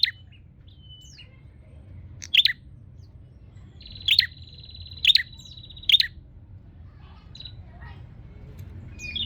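Prenjak (prinia) calling in challenge to a rival: five sharp, loud chirps a second or two apart, with a buzzing trill held for about two seconds through the middle and fainter calls near the end. A low steady hum runs underneath.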